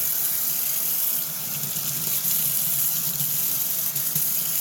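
Water running steadily from a tap into a sink, with a few faint clicks.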